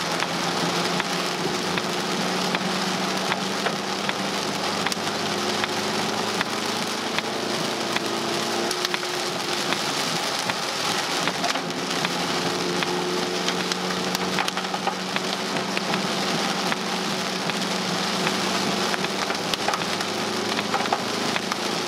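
Heavy rain pelting a car's windshield and roof, heard from inside the moving vehicle: a dense patter of drop hits over a steady low hum of the engine and tyres.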